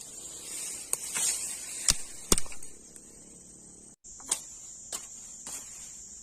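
Steady high-pitched chirring of crickets, with a handful of sharp knocks or clicks over it, the loudest two close together about two seconds in. The sound drops out for a split second near the middle.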